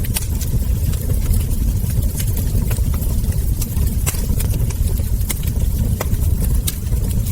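Wood fire crackling, with many small sharp pops and snaps at irregular intervals over a steady low rumble.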